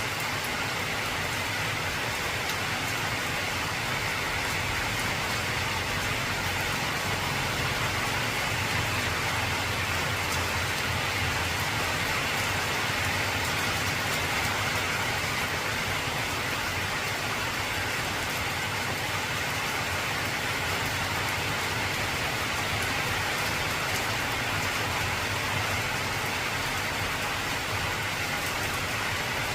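Heavy rain drumming steadily on an old corrugated zinc roof, an even, unbroken patter.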